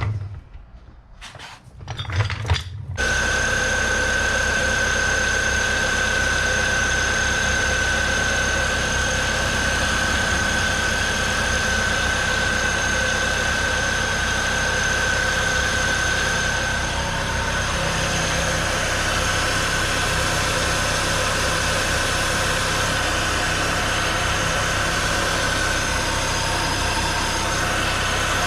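1998 Chevy Cavalier's 2.2-litre four-cylinder engine starting about three seconds in, then idling steadily with a constant high-pitched whine over the running, after a new belt tensioner and serpentine belt have been fitted.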